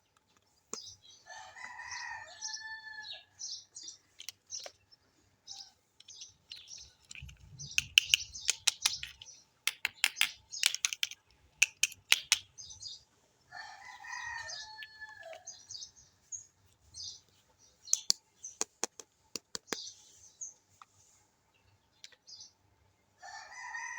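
Hard plastic toy kitchen pieces clicking, tapping and rustling as they are handled, loudest in a run of sharp clicks mid-way. A rooster crows three times in the background: about a second in, in the middle, and at the end.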